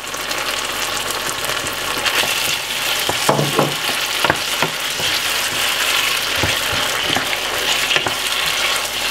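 Chopped peppers, onion and carrot sizzling in hot oil in a frying pan, with browning sauce just added. A wooden spoon stirs them, scraping and knocking against the pan now and then.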